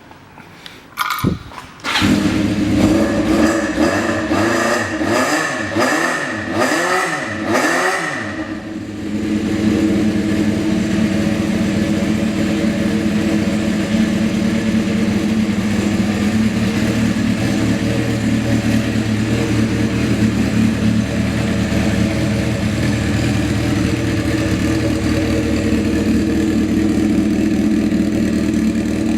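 Honda CBX400F's air-cooled inline-four, fitted with a custom aftermarket exhaust, starting after a brief crank about two seconds in. It is revved up and down several times, then settles into a steady idle.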